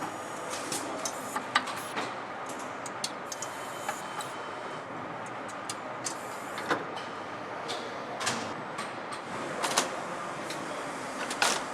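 Factory assembly-floor noise: a steady hum of machinery with many short metallic clicks and clanks of tools and parts, a few of them louder and sharper.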